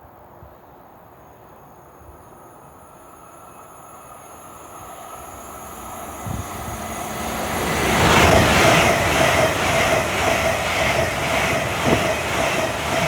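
Fast passenger train approaching and passing at speed: the rushing noise builds over several seconds, then turns loud about two-thirds of the way in, with a steady run of wheel beats as the carriages go by.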